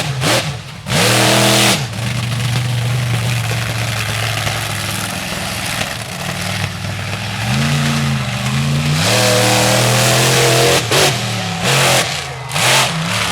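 Monster truck engine revving hard, its pitch climbing and falling with the throttle: a long high rev in the middle, then several short sharp throttle blips near the end.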